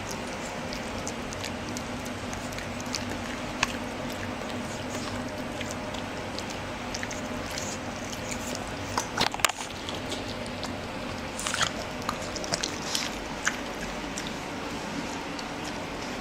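A Boston terrier and a pug puppy play-biting and scuffling, heard as scattered soft clicks and mouthing noises over a steady low hum. There are louder flurries about nine seconds in and again around twelve to thirteen seconds in.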